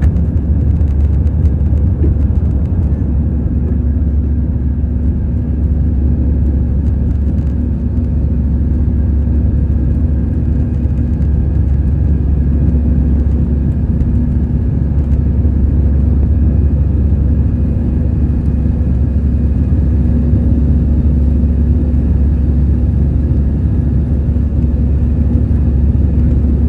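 Steady, loud cabin rumble inside an Airbus A320-214 with its CFM56-5B engines running, heavy at the low end, with a few faint steady tones over it.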